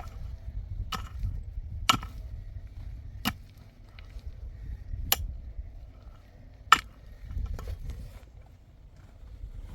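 A series of six sharp strikes, spaced unevenly about one to two seconds apart, the last the loudest, over a low background rumble.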